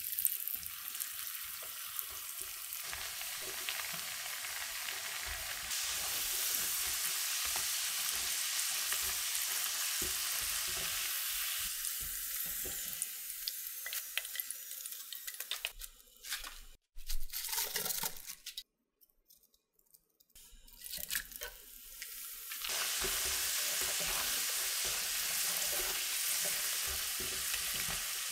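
Potatoes sizzling and crackling in hot frying oil, a steady hiss with occasional stirring. The sizzle breaks off briefly a little past the middle, then drops out for about two seconds before resuming.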